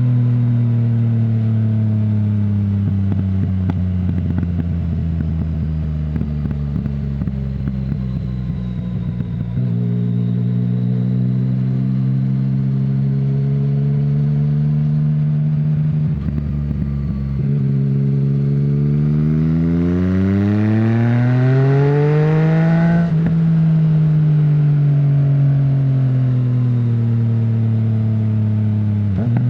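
Yamaha MT-09's three-cylinder engine heard through an Akrapovic full-system exhaust with no dB killer, under way. For the first ten seconds the revs slowly fall, with crackling from the exhaust. After a couple of gear changes, the engine pulls hard with a steadily rising note for about five seconds, then eases off and the note slowly drops.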